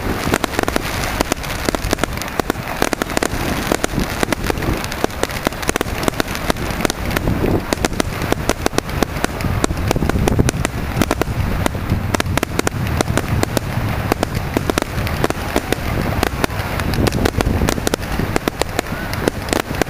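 Firework display going off: a dense, continuous barrage of bangs and crackling, many reports a second, over a deep rumble.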